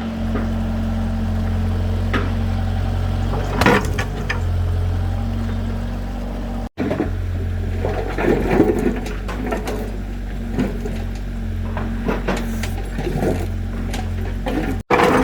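Heavy machine engine running steadily at a low hum, with irregular knocks and clatter that grow busier in the second half.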